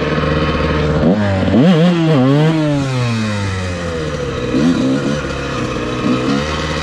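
Dirt bike engine revving, its pitch climbing and dropping a few times in the first three seconds, then holding steady with a couple of short blips of throttle.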